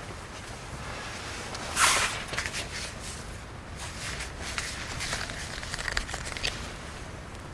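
Rustling and handling noises, with one louder rustle or scrape about two seconds in.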